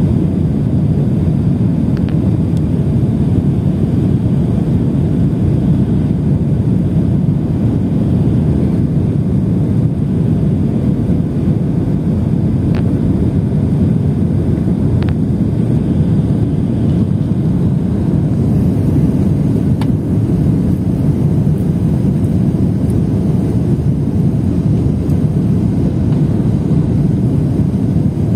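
Airliner's steady low rumble of engines and airflow, unchanging throughout, with a few faint ticks.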